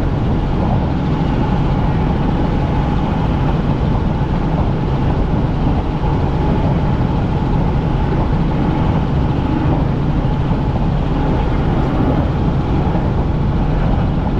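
Helicopter in flight, heard from inside the cabin: a loud, steady engine and rotor hum that does not change.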